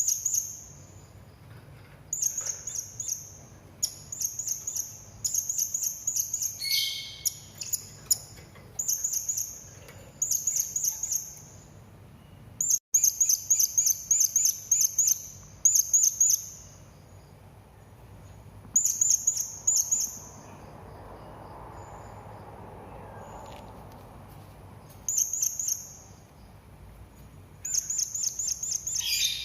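Serindit (hanging parrot) calling in repeated bursts of rapid, high, shrill chirps, each burst about a second long with short gaps between. The calls stop for several seconds past the middle, then resume near the end.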